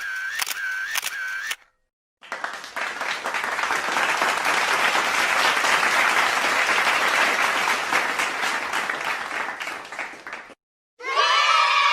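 A run of quick clicks with a short tone in each, about two or three a second, stops about one and a half seconds in. Then applause swells and fades over several seconds, and near the end a crowd starts cheering and shouting.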